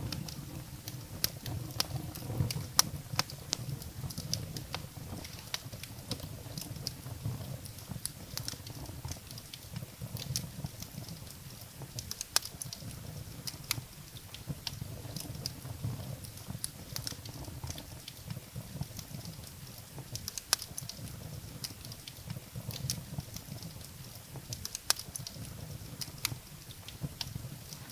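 Wood fire burning in a fireplace: irregular sharp crackles and pops of burning firewood over a steady low rumble of the flames.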